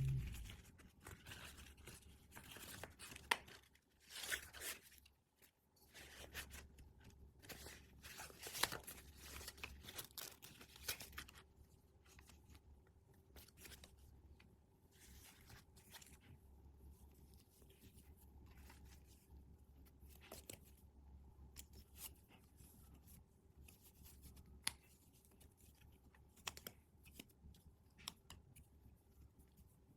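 Toy packaging being torn open and handled up close: wrapper tearing and crinkling with small clicks and taps. It is busiest in the first ten seconds or so, then thins to scattered soft ticks and rustles.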